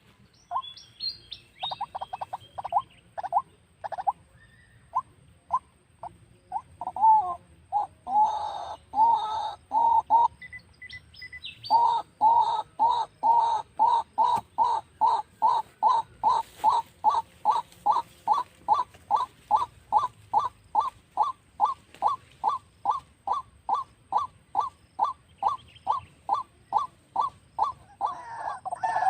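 White-breasted waterhen calling: a long series of short, evenly repeated notes, scattered at first, then after a brief pause about twelve seconds in settling into a steady run of about two to three a second.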